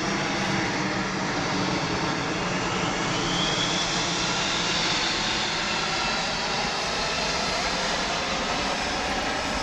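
C-17 Globemaster III jet transport flying past, the steady noise of its four turbofan engines with a high whine that slowly falls in pitch from about three seconds in.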